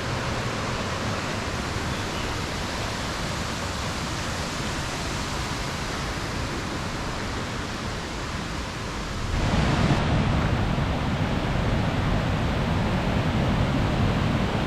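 Floodwater of the Nant Llech river rushing, a steady wash of noise that jumps louder and deeper about nine and a half seconds in.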